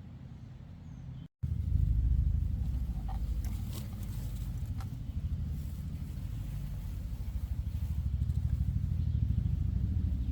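Low, steady rumble of a running vehicle, starting abruptly after a short dropout about a second and a half in.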